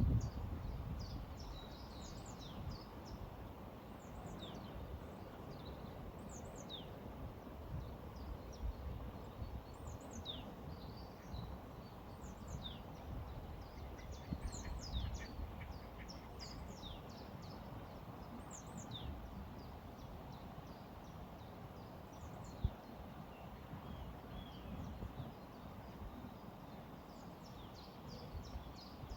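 Small songbirds chirping with many short, high, falling notes, scattered throughout over a steady low rushing background of flowing river water. A single brief tap sounds about two-thirds of the way through.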